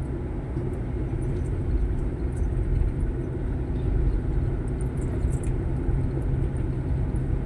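Steady low rumble of a motor vehicle running on the road, with faint light rattles.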